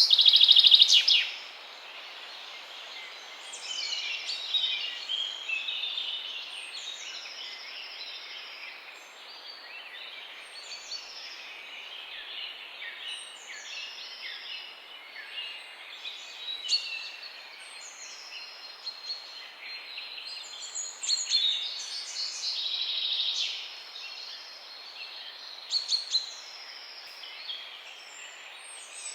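Several birds chirping and singing in a morning chorus over a steady background hiss. A loud rapid trill comes right at the start, and one bird repeats a short high note every second or two.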